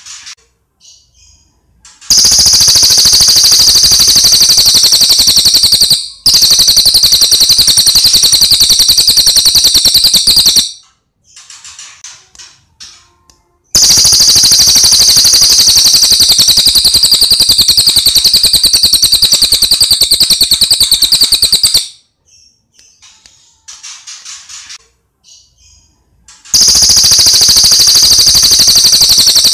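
Cililin songbird singing in long, very rapid, loud trilled phrases several seconds each, with softer short chirps between them.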